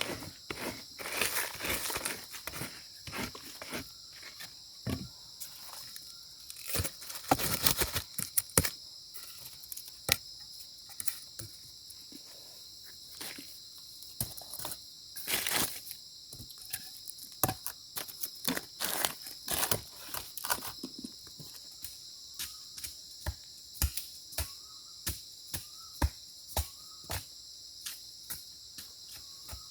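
Insects, likely crickets, chirring steadily in the background, with many sharp snaps, cracks and crinkling sounds in the foreground, loudest in a cluster around seven to eight seconds in.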